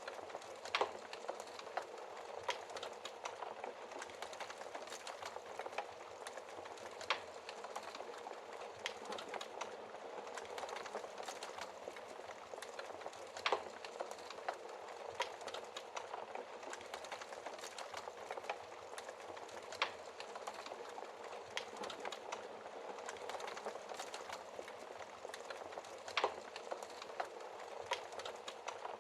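Wood fire burning in a fireplace: a steady soft crackle with frequent small snaps and a handful of sharper pops from the burning logs.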